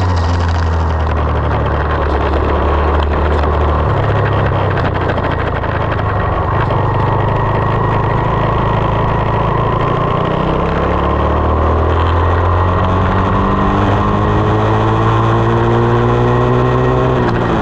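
2020 SSR 189 dirt bike's single-cylinder four-stroke engine running under way. Its pitch changes a couple of times, then rises steadily through the second half as the bike accelerates, and drops sharply near the end.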